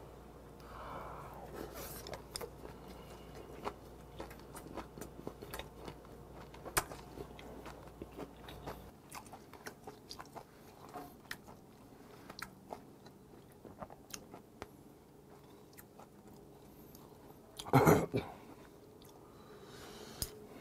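A person chewing and crunching a mouthful of a raw-onion wrap with pork belly, scallop and kimchi, with many small wet mouth clicks. A short, louder burst comes near the end.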